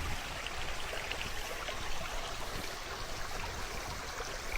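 Creek water flowing steadily, a continuous rushing murmur.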